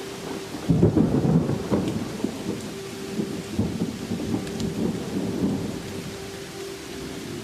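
Rainstorm: rain falling, with a low, irregular rumble that comes in about a second in and eases off over several seconds.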